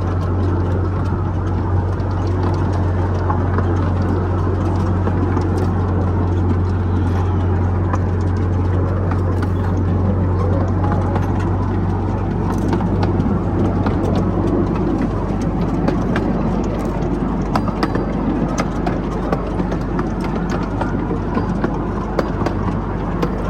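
Miniature park train running, heard from on board: a steady low engine drone under running noise, with many irregular clicks and rattles from the wheels and carriages on the track.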